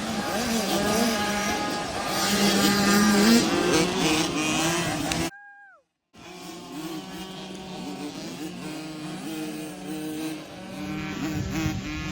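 Several small 50cc youth motocross bikes racing on the track, their high-revving engines rising and falling in pitch as they accelerate and back off. The sound cuts out for under a second about five seconds in, then the engines carry on.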